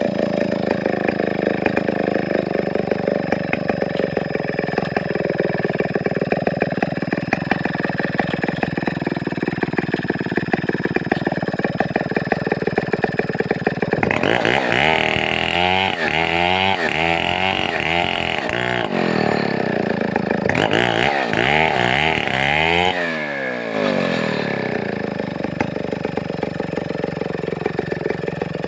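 A Stihl 070-type two-stroke chainsaw (New West 707) runs steadily. For about nine seconds after the midpoint it runs higher and brighter, then drops to a lower, slightly quieter steady run for the last few seconds.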